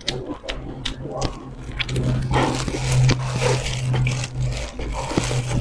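Close-up biting and crunching of crispy fried food, a dense run of sharp crackles that peaks about halfway through, over a steady low hum.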